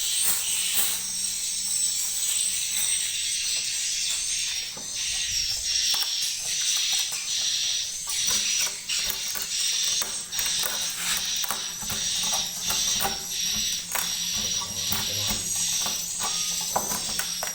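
A colony of swiftlets inside a swiftlet house, a dense, continuous high-pitched twittering peppered with rapid clicks.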